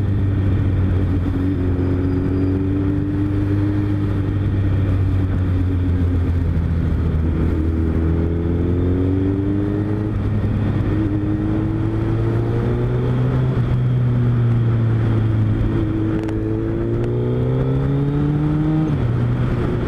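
Motorcycle engine running at a steady cruise under way, its pitch climbing slowly through the second half, then dropping suddenly near the end as it shifts up, over a steady rush of wind.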